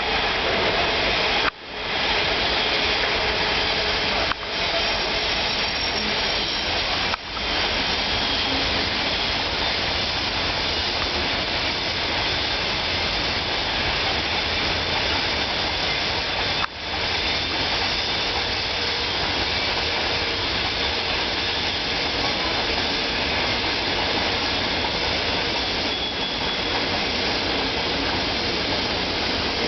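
VL82M electric locomotive arriving with a passenger train: a steady, loud rushing noise of the locomotive and its train running past, with a few brief dips in level.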